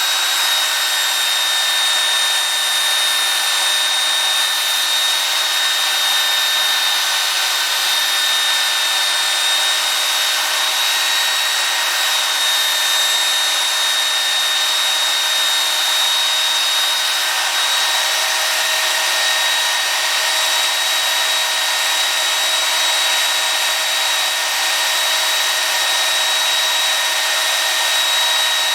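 Belt sander running continuously, with a steady high whine over a grinding hiss as work is held against the belt.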